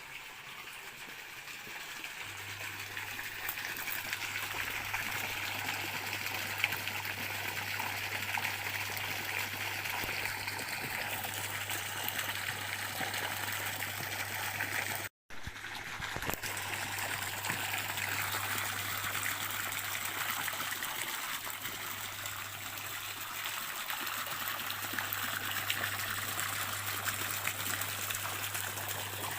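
Stream water trickling and running steadily over stones, with a low steady hum underneath. The sound cuts out for an instant about halfway through.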